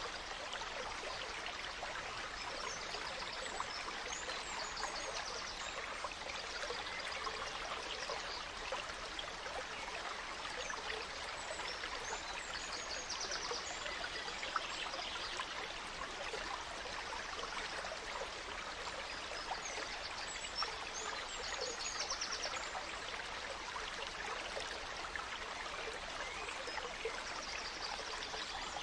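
A small forest stream babbling and trickling steadily, with songbirds chirping and giving short rapid trills over it every few seconds.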